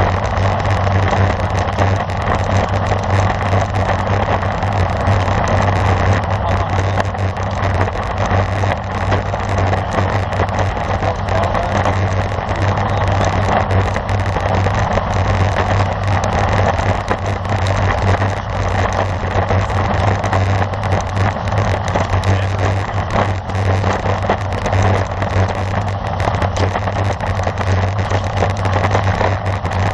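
Steady rush of wind and road noise while riding a road bike in a race, with a constant low hum underneath and no change throughout.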